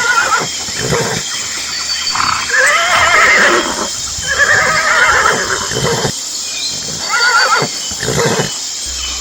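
A horse neighing and whinnying: a run of calls with a quavering, wavering pitch, two long whinnies in the middle and shorter ones before and after.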